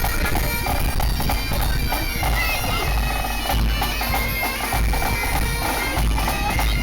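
Pipe band bagpipes playing, their steady drones running under the chanter melody, with wind rumbling on the microphone.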